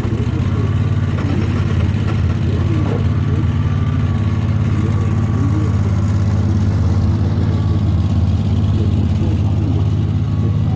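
Sawmill engine running steadily at a constant speed, a loud, low, even drone.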